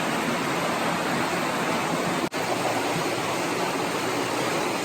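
Steady rushing of water, an even hiss with no distinct events, broken by a momentary dropout a little over two seconds in.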